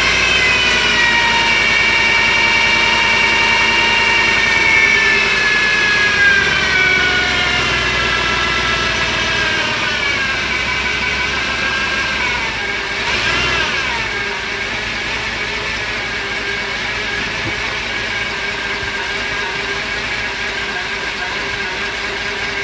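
Mercruiser 350 small-block V8 boat engine running, its revs slowly dropping over the first ten seconds, dipping briefly about halfway through, then settling into a steady idle.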